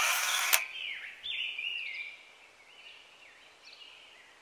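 Birds singing outdoors, a run of short descending chirps that fades after about two seconds, opening with a brief loud hiss of noise in the first half-second.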